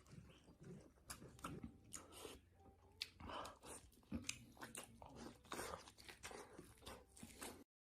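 Close-miked chewing and biting of pork: wet, crunchy mouth sounds with sharp clicks, several a second. The sound stops abruptly near the end.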